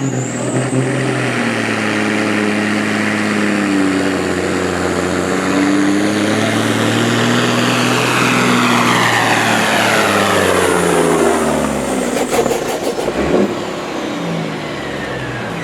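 Competition pulling vehicle's engine running hard at high revs under load, its pitch holding for about ten seconds and then dropping away as it comes off the throttle. A few sharp cracks come as it winds down.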